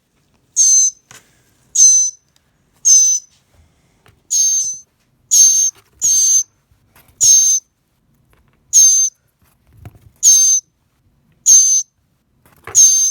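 Young northern mockingbird giving short, harsh, high-pitched calls over and over, about one a second.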